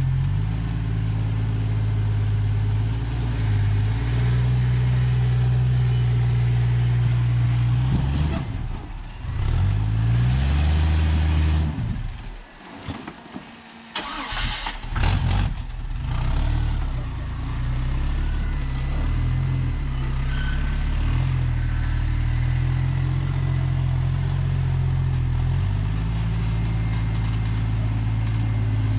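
Off-road vehicle engine running at low revs, its pitch rising and falling as the throttle is worked. About halfway through the engine noise drops away for a moment, followed by a short loud burst of noise before the engine settles back to a steady run.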